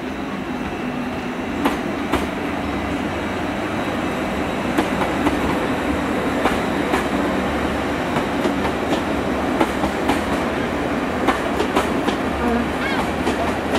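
Great Western Railway Hitachi Intercity Express Train passing at the platform: a steady running hum with the repeated clickety-clack of its wheels over rail joints, the clicks coming more often after the first few seconds, and a light wheel squeal near the end.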